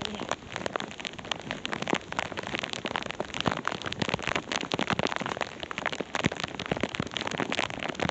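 Heavy rain falling, with drops striking close to a body-worn camera in a dense, irregular patter of sharp ticks.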